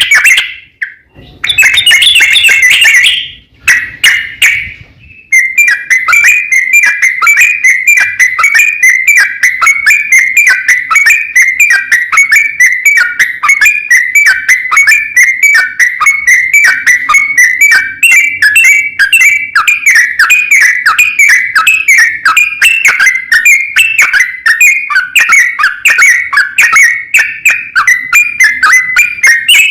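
Yellow-vented bulbul singing loudly. A few short phrases come first, then from about five seconds in an unbroken run of quick repeated whistled notes, all near the same pitch. This is the long rolling 'ropel' song used to call out and provoke rival bulbuls.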